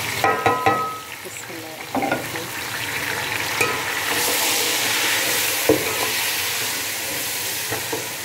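Chopped tomatoes, chillies, mint and spice masala frying in hot oil and browned onions in a large pot, sizzling while a steel ladle stirs and scrapes through them. A few knocks of the plate and ladle against the pot come in the first second, and the sizzle grows stronger from about four seconds in.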